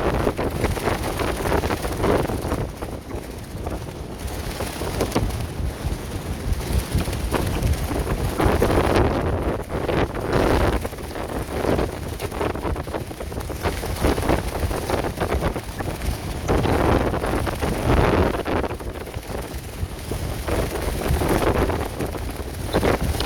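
Strong wind gusting against a clear plastic tent, the plastic sheeting flapping and crackling, with heavy wind rumble on the microphone.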